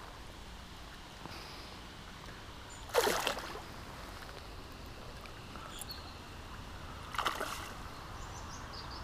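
A hooked chub splashing at the water's surface twice, about four seconds apart, while being played on a fly line, over a steady low background of river water.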